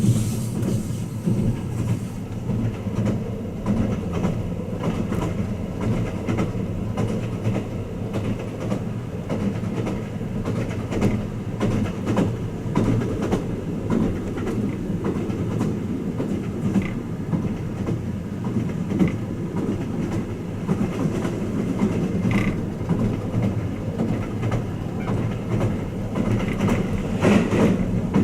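Twilight Express Mizukaze luxury train running, heard from inside a passenger car: a steady low rumble of wheels on rail, with scattered clicks over the rail joints.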